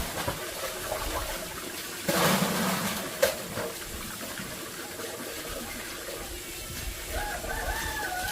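Water splashing and sloshing, with a heavier rush of water about two seconds in and a sharp knock soon after. Near the end a short wavering pitched call sounds over it.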